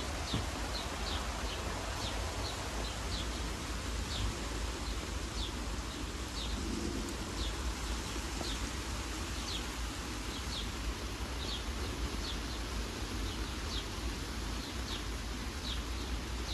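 Small birds chirping in short, sharp notes, one or two a second, over a steady hiss and a low rumble.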